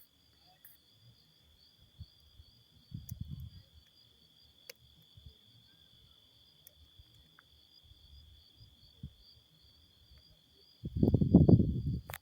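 Crickets trilling steadily at two high pitches without a break. A brief low rumble comes about three seconds in, and a louder one just before the end.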